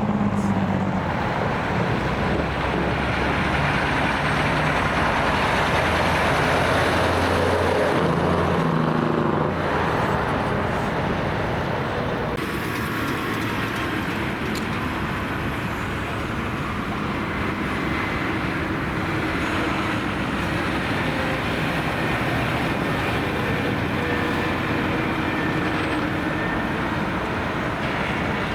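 Road traffic with heavy trucks passing: steady tyre noise with an engine note that is strongest and steps in pitch during the first ten seconds, then settles into an even traffic noise.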